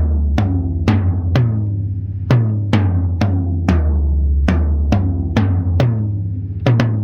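Tom-toms with new Remo Pinstripe heads struck one at a time, about two hits a second, each ringing out with a low tone. The pitch steps to a different drum a couple of times as the strokes move across the toms, and the hits come quicker near the end.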